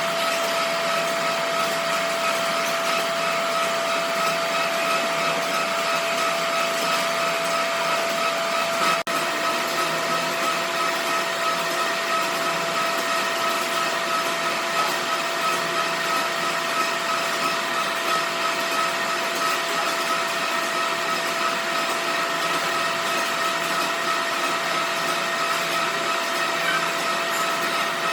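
Workshop machinery running steadily: an even mechanical noise with a steady whine held through it, broken by a brief dip about nine seconds in.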